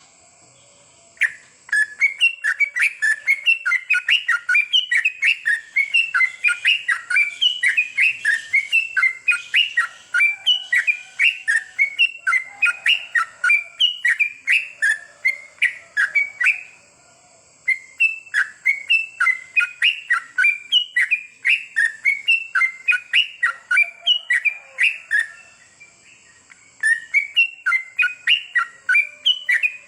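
Sooty-headed bulbul (trucukan) singing fast, chirpy, repeated notes in long runs, with two short breaks. A steady faint high tone sits underneath.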